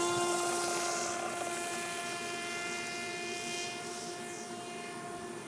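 Electric motor and propeller of an Aerobird Challenger RC plane at full throttle on takeoff: a steady high-pitched buzz, just wound up, that slowly grows fainter.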